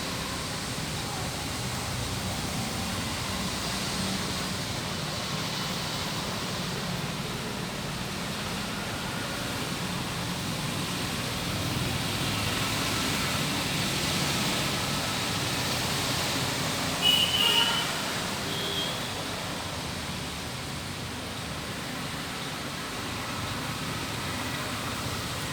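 Heavy rain and highway traffic on a wet road: a steady hiss of rain and tyre spray. About 17 seconds in comes a brief high-pitched vehicle horn blast, the loudest sound, with a shorter one about a second later.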